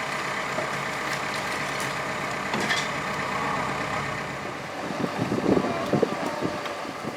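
Heavy diesel machinery running steadily at a demolition site, with irregular cracks and knocks in the second half.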